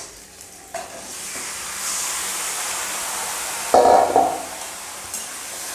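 Marinated chicken going into hot oil with fried onions in a kadai, sizzling with a strong hiss that starts about a second in; a brief louder clatter about four seconds in.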